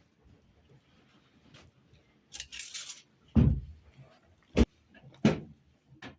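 A brief rustle, then three heavy knocks a second or so apart and a lighter knock near the end.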